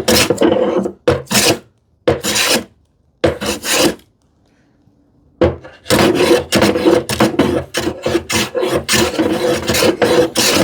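A hand woodworking tool rasping across wood in repeated strokes, taking material off the edge of a drawer front to fit its opening. Four separate strokes come first, then a short pause, then a run of quick back-and-forth strokes.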